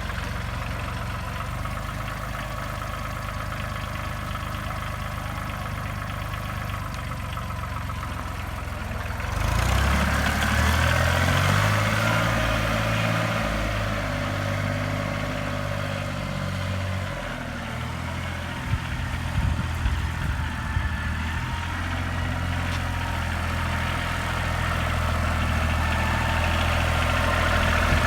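The 1993 Ford 1720's three-cylinder Shibaura diesel engine idling steadily, then brought up to a higher speed about nine seconds in and held there. There are a few sharp knocks around two-thirds of the way through.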